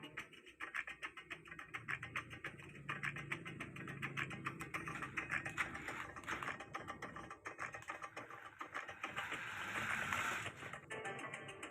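Small electric motor and plastic gears of a homemade remote control car running, with a dense rapid clicking and a low hum that comes and goes.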